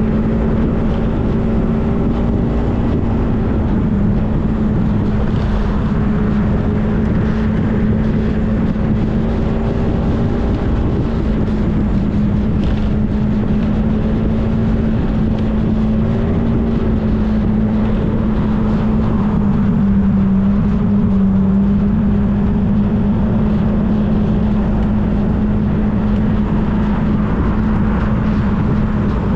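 Motorcycle engine running steadily while riding, with a dense low rumble of wind and road noise over it; the engine note drops slightly about twenty seconds in and again near the end.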